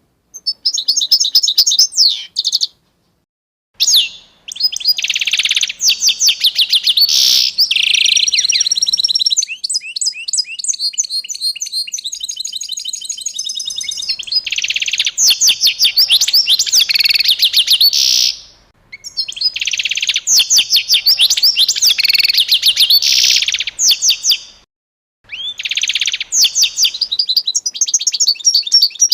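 Small songbirds chirping and singing in fast trills of high, rapidly repeated notes, in several bouts broken by brief total silences.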